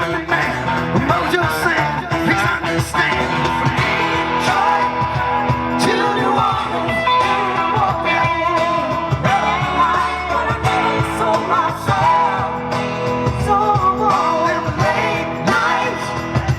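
Rock music: a singing voice over guitar, with a steady beat.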